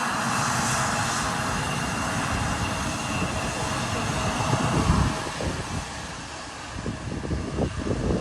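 Jet airliner engine noise: a steady roar with a thin high whine, fading away about five to six seconds in, after which low irregular rumbles of wind buffeting the microphone remain.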